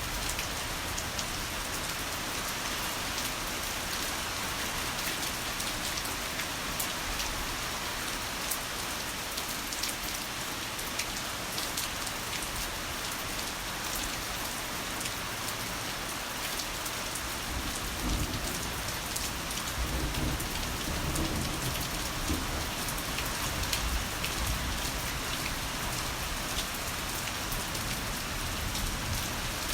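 Heavy rain falling in a steady dense hiss of drops. A little past halfway through, a low rolling rumble of thunder swells underneath and lingers for several seconds.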